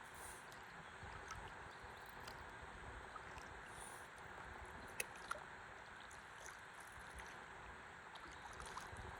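Faint, steady river water flowing and lapping around a drifting stand-up paddleboard, with two small sharp clicks about five seconds in.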